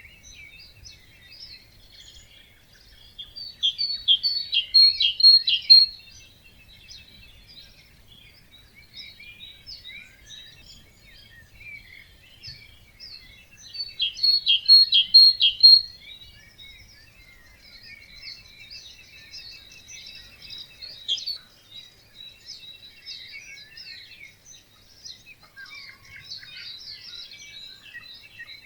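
Wetland dawn chorus of many songbirds singing and chirping together. One nearby bird twice sings a loud, short phrase of quickly repeated high notes, about ten seconds apart.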